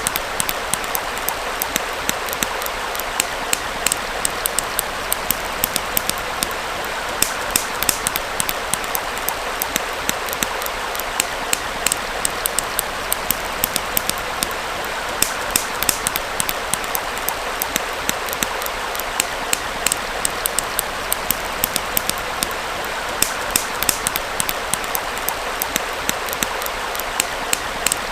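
Campfire crackling with frequent irregular sharp pops over the steady rush of a small stream.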